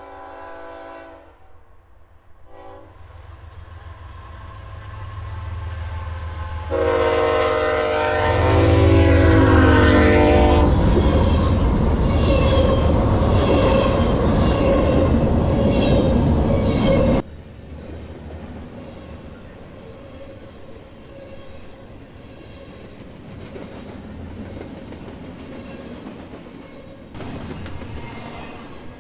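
Freight train diesel locomotives passing: the horn sounds a short chord, a brief toot, then a longer loud blast as the engines rumble by with wheel clatter. Partway through, the sound drops suddenly to the quieter steady rolling of freight cars with clickety-clack over the rail joints.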